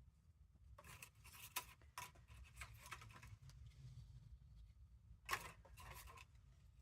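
Faint rustling and crinkling of paper cut-outs being handled and shuffled, in two spells: about a second in, and again near the end.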